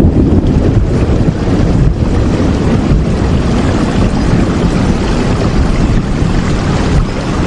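Steady heavy rain, an even unbroken wash of noise weighted toward a deep low rumble.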